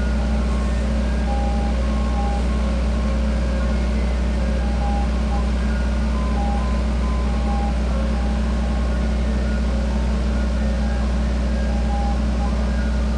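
Soft-serve ice cream truck with its engine running in a steady low hum while its chime jingle plays a tinkly tune of short notes.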